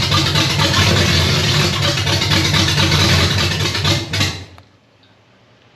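Chevy 327 small-block V8 running, then cutting out about four seconds in. It is starving for fuel: the mechanical fuel pump is not picking up fuel from the jug.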